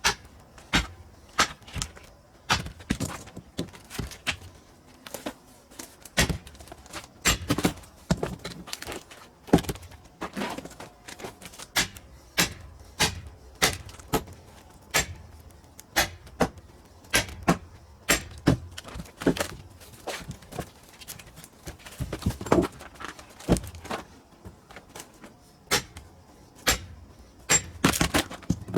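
Pine firewood knocking and clunking: an irregular run of sharp wooden knocks, roughly one to two a second.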